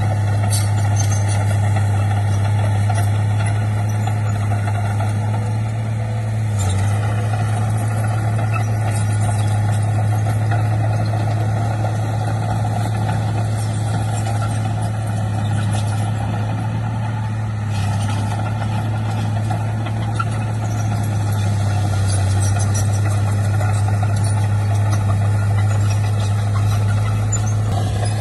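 Heavy earthmoving machine's diesel engine running steadily at an even speed, with a deep constant hum.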